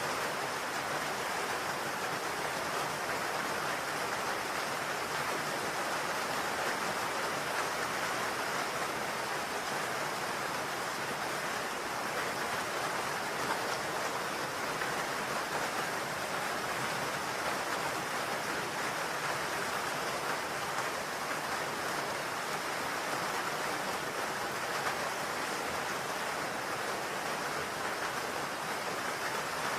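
Steady rain falling on a roof, a dense even hiss of drops with no distinct single hits.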